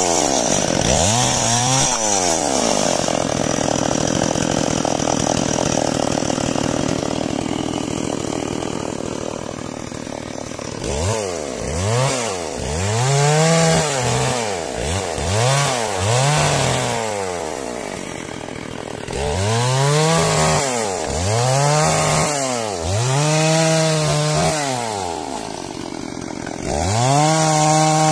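Two-stroke chainsaw held at high speed, cutting timber for about ten seconds. It is then revved up and down repeatedly, dipping between each burst of throttle, and goes back to full speed near the end.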